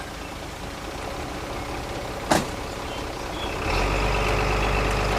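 Heavy earth-moving machine engine running, its low note rising and steadying louder about three and a half seconds in, with a high whine above it. A single sharp knock a little over two seconds in.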